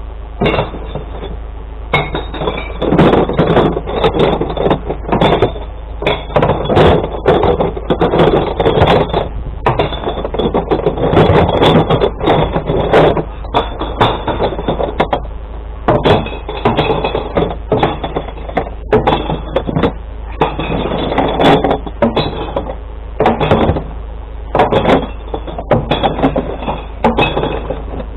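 Glass bottles and jars being tipped from recycling crates into a glass-collection truck, clattering and smashing in a long, irregular cascade of impacts, over the steady low rumble of the truck's engine.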